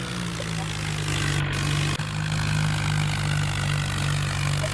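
Mahindra tractor's diesel engine running steadily, dropping slightly in pitch and growing a little louder about a second in, with a brief click near the middle.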